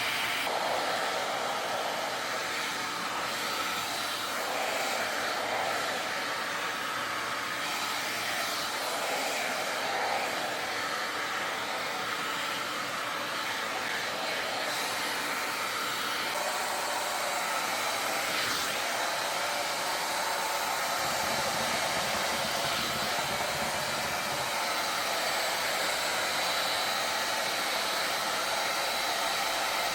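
3-in-1 hot air brush styler running, blowing a steady rush of hot air.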